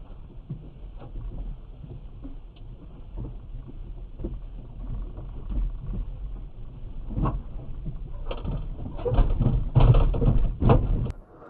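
Low rumble of a moving car heard through a dashcam microphone, with scattered knocks and a louder run of thumps near the end that stops abruptly.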